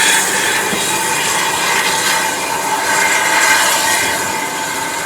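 A train running: a steady, loud rush of wheel and rail noise with faint high held tones.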